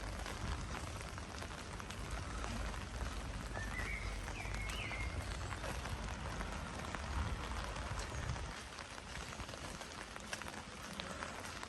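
Rain falling steadily, with a short high chirp about four seconds in.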